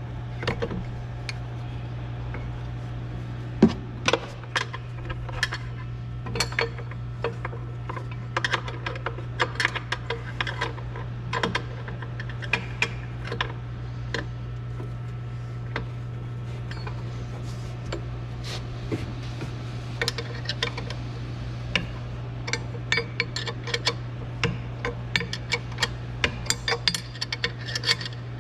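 Irregular metallic clicks, clinks and clanks of hand tools and parts being handled on the golf cart's engine and frame, over a steady low hum.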